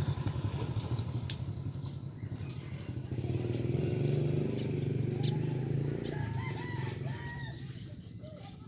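A rooster crowing about six seconds in, with short bird chirps, over a steady low engine drone.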